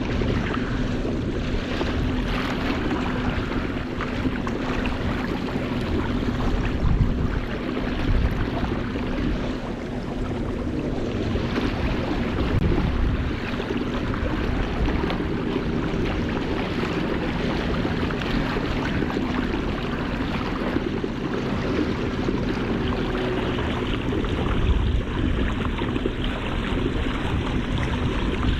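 Strong wind buffeting the microphone over choppy ocean water, with waves splashing and a steady low hum underneath.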